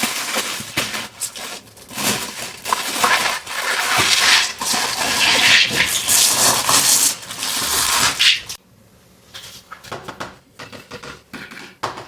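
Toy packaging being opened and handled: a loud rustling noise for about eight seconds that stops suddenly, followed by softer scattered clicks and taps.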